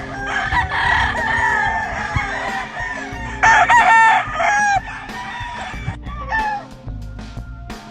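Several gamecock roosters crowing and clucking, with overlapping calls throughout. One loud, close crow comes about three and a half seconds in and lasts over a second.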